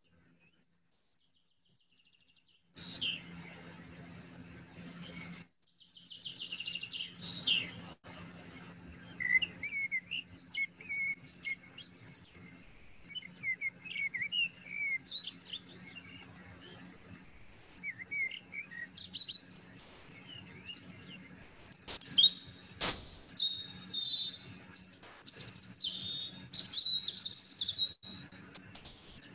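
Songbirds singing: a string of varied chirps, quick trills and sweeping whistles, starting about three seconds in, over a faint steady low hum.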